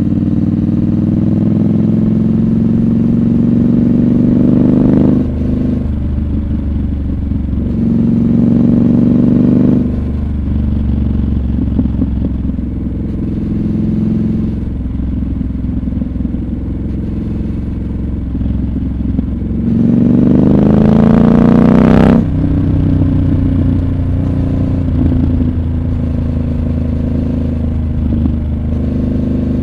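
Triumph Scrambler 1200 XC's parallel-twin engine under way, pulling up through the revs and dropping back several times. About two thirds of the way in it revs up hard for a couple of seconds and cuts off sharply, then settles to a steadier run.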